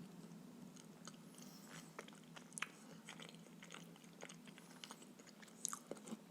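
Close-miked chewing of stuffed pancakes: a faint run of small wet clicks and mouth smacks, two of them louder, over a steady low hum.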